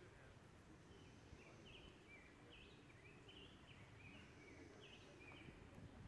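Near silence: a faint bird sings a string of short, high chirps from about a second in until near the end, over a low rumble.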